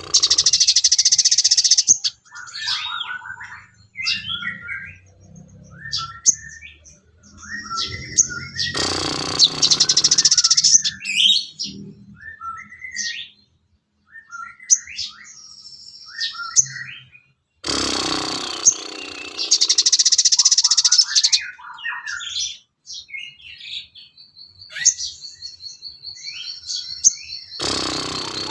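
A sogon songbird singing: varied short chirps and twittering phrases, broken about every nine seconds by a loud harsh, rasping burst, with a rapid trill near the end.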